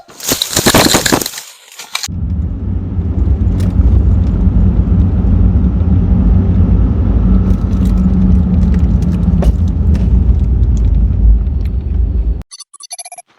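A 4x4 driving on a rough dirt trail: a steady low rumble with rattles and knocks. It opens with a loud rush of noise lasting about two seconds, and a short run of high electronic beeps comes near the end.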